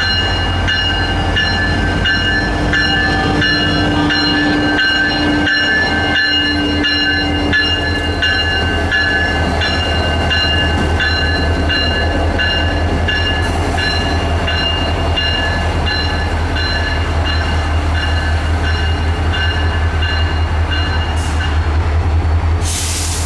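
A train running past: a steady heavy rumble of the railcars with several steady high ringing tones from the wheels on the rails, broken up at regular intervals. A brief loud hiss sounds near the end.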